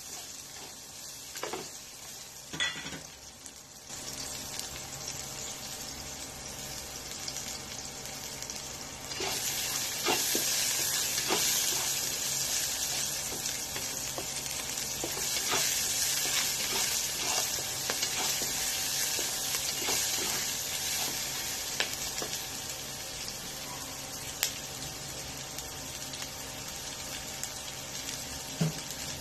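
Garlic and chopped red onion sizzling in hot oil in a nonstick wok, sautéing, with a spatula now and then scraping and tapping the pan. The sizzle gets louder about four seconds in and again about nine seconds in.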